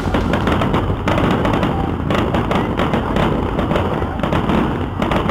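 Fireworks going off in quick succession: a dense run of bangs and crackling from shells bursting one after another.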